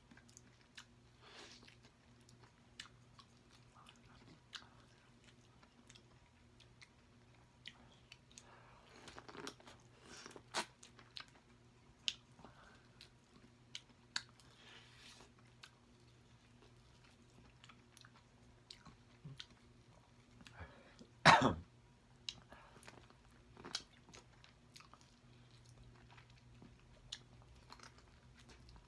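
Close-miked chewing and biting of boiled corn on the cob: irregular small crunches and clicks. About two-thirds of the way through there is one much louder burst.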